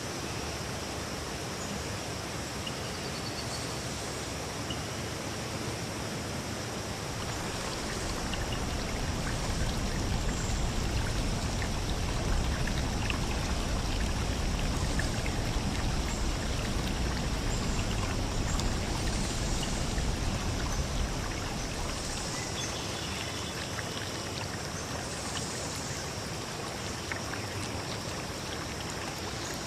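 Stream water flowing steadily, growing louder a quarter of the way in and easing back about two-thirds of the way through.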